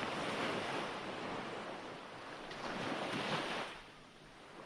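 Recorded ocean waves: surf rising and falling, with a wave swelling about two and a half seconds in and washing away shortly before the end.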